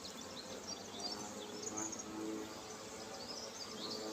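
Honeybees buzzing around an opened hive during an inspection, a steady hum of many overlapping pitches from a disturbed colony.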